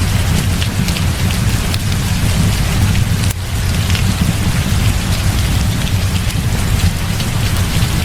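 Heavy rain falling steadily over a continuous low rumble, with many scattered sharp ticks of drops or crackles through it.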